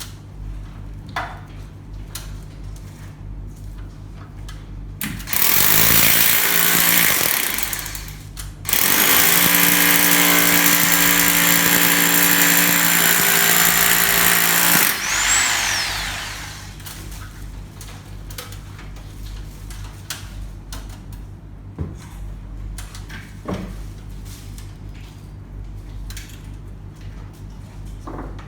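Power drill running in two bursts, one of about three seconds and one of about six seconds, then winding down with a falling whine.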